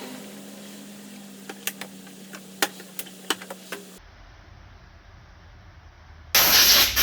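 Irregular light clicks and taps of hand tools on engine parts over a steady low hum. Near the end a loud hiss starts abruptly.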